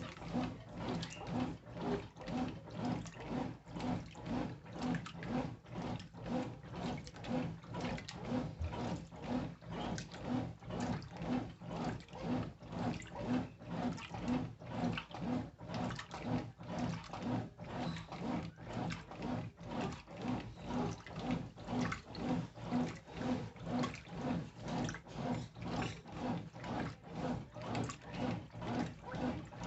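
Brastemp Intelligent 7 kg top-loading washing machine agitating clothes in water, a steady rhythmic slosh and motor pulse about twice a second.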